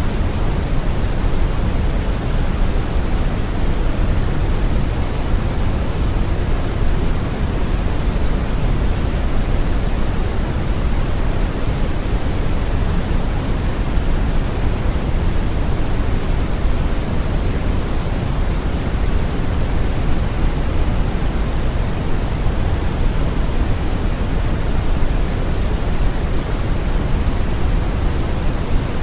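Steady brown noise: an even, unchanging rumbling hiss weighted heavily toward the low end.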